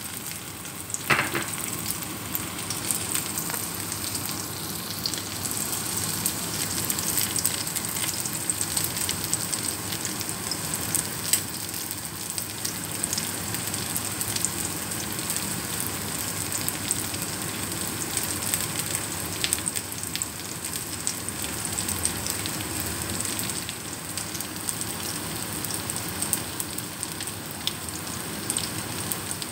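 Ground pork patties frying in shallow oil in a wok, a steady sizzle with many fine crackles. A short knock stands out about a second in.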